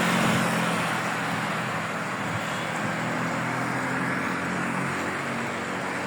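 A motor vehicle's engine running with a steady low hum, over a constant hiss of traffic noise.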